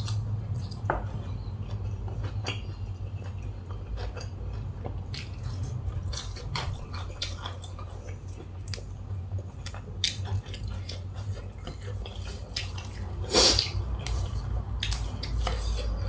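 Eating at a table: scattered small clicks and clinks of cutlery against dishes, with chewing, over a steady low hum. One louder clink comes about thirteen seconds in.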